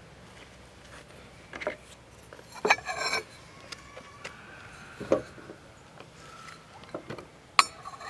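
Hasami porcelain dishes clinking and knocking against each other as they are handled, in several separate strikes; the loudest, about three seconds in, rings briefly.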